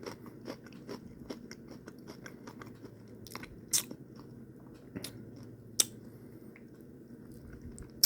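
Someone chewing crunchy tortilla-chip nachos close to the microphone: a quick run of crisp crunches, then sparser ones with a few sharper cracks, and a sharp click right at the end.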